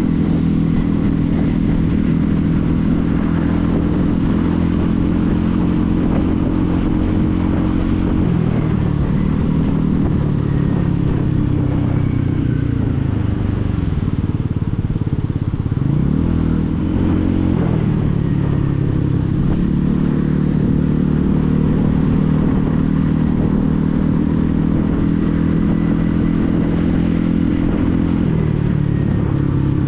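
Motorcycle engine running at a steady cruise. Its pitch falls as it slows about eight seconds in, dips sharply and picks back up around sixteen seconds, then falls again near the end.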